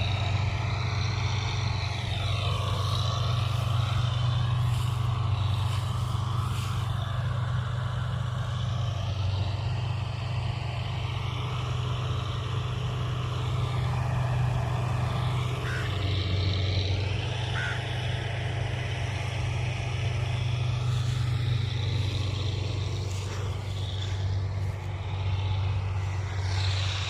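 Wheat combine harvester running steadily, a continuous low engine drone with little change.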